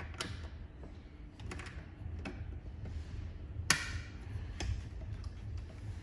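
Small clicks and handling knocks as a cable plug is fitted into a socket on a jewelry laser welding machine, with one sharper click a little past the middle, over a low steady hum.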